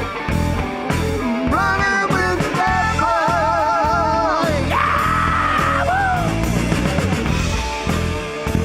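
Rock band playing live: a steady drum beat and bass under a wavering, vibrato-laden vocal line, then a long held high note about five seconds in.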